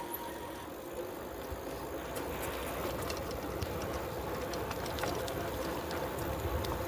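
Bicycle riding along a road: steady tyre and wind noise with scattered light ticks, growing slightly louder toward the end.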